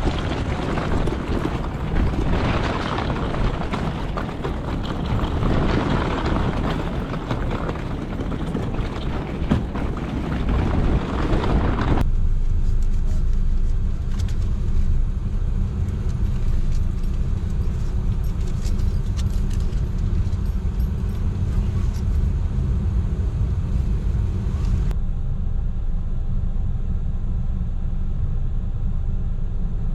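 Steady vehicle rumble: a wide rushing noise for about the first twelve seconds, then an abrupt change to a low rumble alone.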